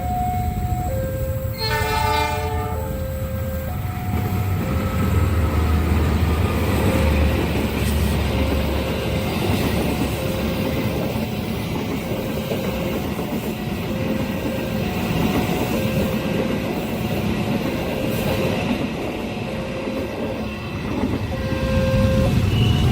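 A railway level-crossing alarm chiming in two alternating tones, a train horn blast about two seconds in, then the train passing at speed with its wheels rumbling and clattering on the rails.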